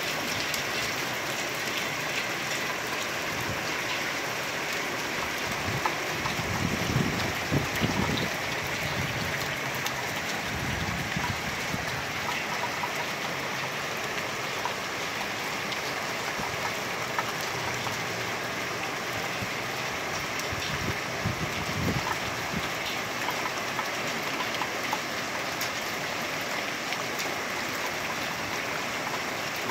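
Steady heavy rain pouring down, with runoff water rushing along a flooded street gutter. Brief low rumbles come about seven seconds in and again near twenty-two seconds.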